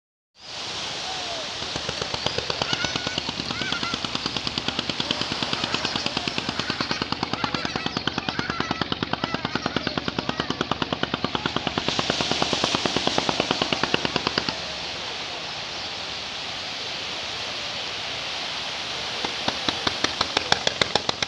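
A wooden fishing boat's engine chugging with rapid, even knocks over the wash of the sea. The knocking stops about two-thirds of the way through and comes back, louder, near the end.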